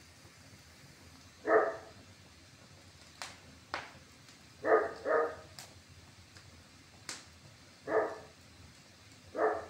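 A dog barking five times in short single barks, one quick pair among them, with sharp pops from a wood fire burning in a fireplace in between.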